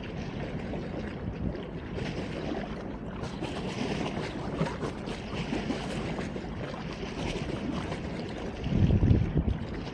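Wind blowing over a phone microphone, a steady rushing noise with a stronger low buffeting gust near the end.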